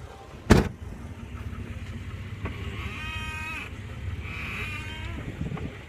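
A car's steering wheel squeaking as it is turned: two drawn-out high squeaks, a few seconds in and again a second later. A sharp knock comes about half a second in, and a low steady rumble runs underneath.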